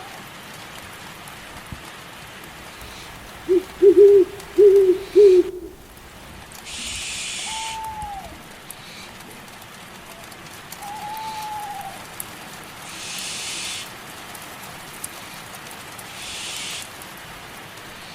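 Steady rain hiss with an owl hooting four times in quick succession a few seconds in, the loudest sound. Later come two fainter, higher single calls and a few brief swells of hiss.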